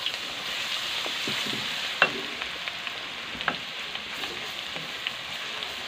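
Garlic paste sizzling in hot oil in a karahi, stirred with a wooden spatula that knocks against the pan a couple of times.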